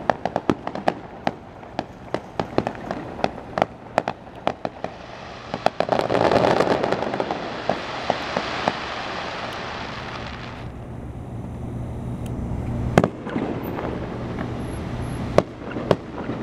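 Fireworks grand finale: a rapid barrage of sharp bangs and crackles, then about five seconds of dense continuous rushing noise that stops abruptly, followed by a few separate loud booms.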